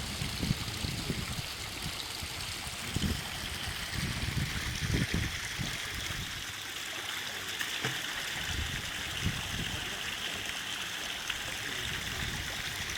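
Water from a homemade garden-pond waterfall running steadily and trickling into the pond, with irregular low rumbles underneath.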